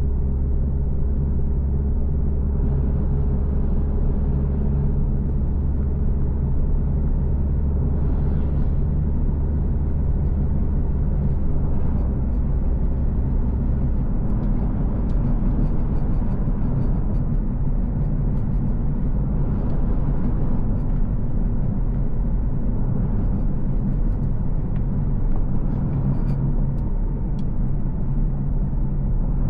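A car driving steadily along a road: continuous low engine and road rumble. About fourteen seconds in, the deepest part of the engine note drops away, as with a change of gear or speed.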